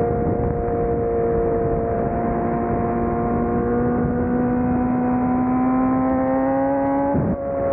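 Sport motorcycle engine running at speed, its steady note rising slowly in pitch as it gathers revs, then breaking off briefly near the end before picking up again.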